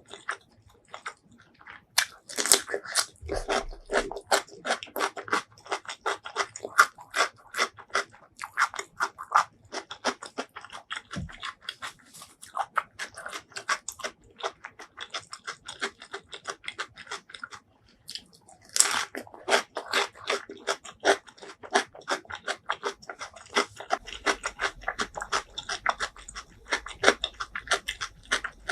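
Close-miked chewing of food: dense runs of quick crisp crunches and wet mouth clicks, loudest in bursts about two seconds in and again about two-thirds of the way through, after a brief pause.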